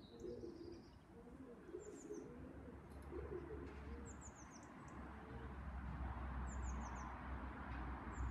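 Pigeons cooing in low warbling notes for the first few seconds, while a small bird chirps in quick falling runs of three or four high notes, repeated every second or two. A low steady rumble comes in under them about two seconds in.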